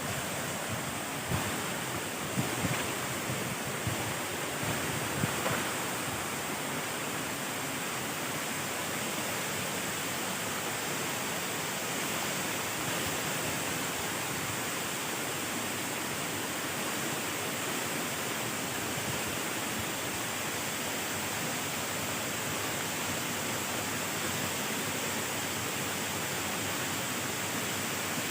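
Waterfall rushing in a steady, unbroken roar of falling water, with a few short low bumps in the first few seconds.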